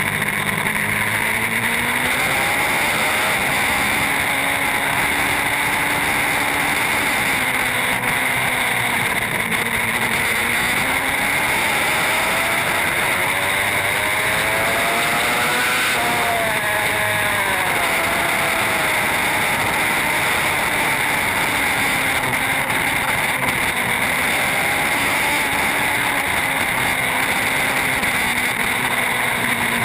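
Racing superbike engine running hard at speed under a steady rush of wind noise, its pitch climbing and falling with the throttle, highest about halfway through.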